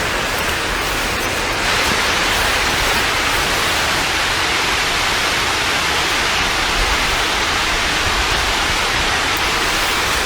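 Steady rushing noise that steps up in level about one and a half seconds in.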